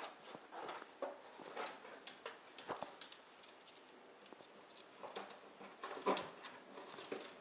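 A dog tearing and chewing at a cardboard box: irregular rips, scrapes and crackles of cardboard, busiest about a second in and again around five to six seconds in.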